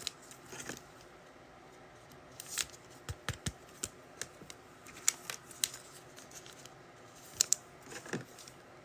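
Trading cards and card packs being handled at a table: scattered light clicks and snaps, with a sharp pair close together about three quarters of the way through.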